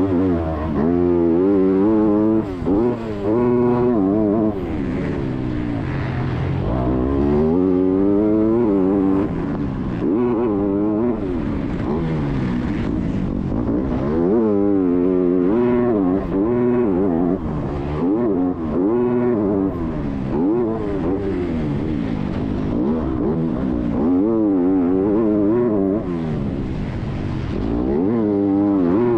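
Motocross bike engine revving hard, its pitch climbing and falling again and again through gear changes and throttle on and off, with brief drops in loudness.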